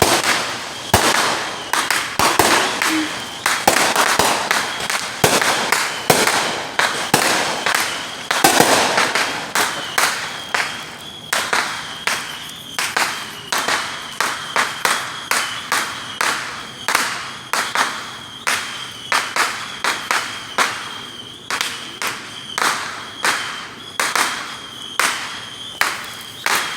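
Fireworks going off: a dense, irregular run of sharp bangs that settles, about ten seconds in, into a steadier series of roughly one or two bangs a second, with a thin steady high tone underneath.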